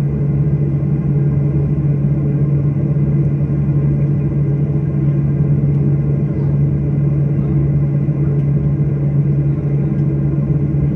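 Steady low drone of a passenger airliner heard from inside the cabin, with a strong even hum and no changes.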